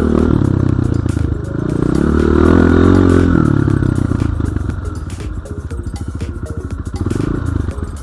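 Enduro dirt bike engine revving up and down, then dropping to a low, pulsing chug that slowly gets quieter.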